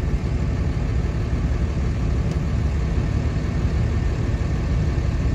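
Truck running: a steady low engine and road rumble with no change.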